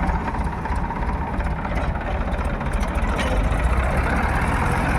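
Tractor diesel engine running steadily with a low throb.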